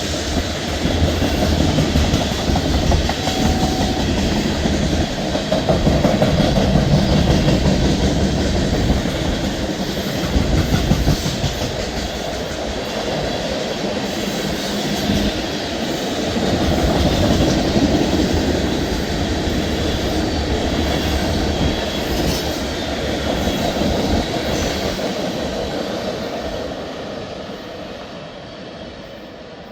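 Freight train rolling past, its cars' steel wheels running over the rails with a steady rumble that fades toward the end.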